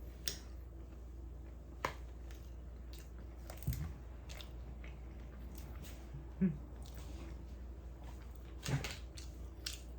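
A person chewing and biting into fried chicken close to the microphone: scattered wet mouth clicks and smacks over a low steady hum.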